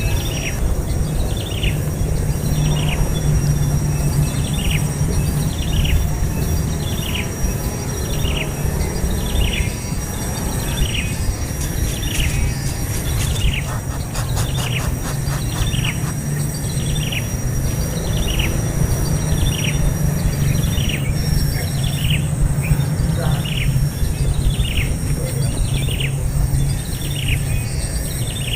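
A baby bird chirping over and over, each call a short falling note, a little more than one a second, over a steady low rumble.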